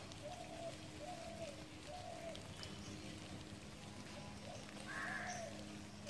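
A bird repeating a short, arched call about once a second over a steady low hum, with a brief hiss about five seconds in.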